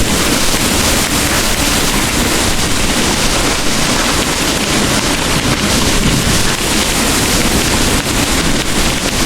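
Heavy rain pouring steadily, a dense even hiss with a deep low rumble underneath.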